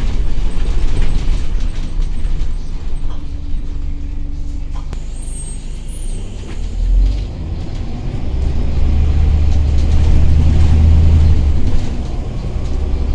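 Scania CN94UB city bus heard from inside the passenger cabin: a steady low engine and drivetrain rumble with some mechanical clicks and rattles. The rumble eases off in the middle, then grows louder for several seconds near the end.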